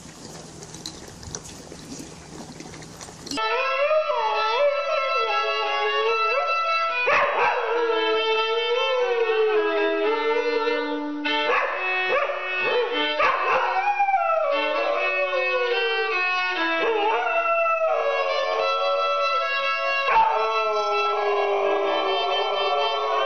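A violin being played while a dog howls along with it, its long wavering howls gliding up and down over the bowed notes. They start about three seconds in, after a few seconds of faint noise.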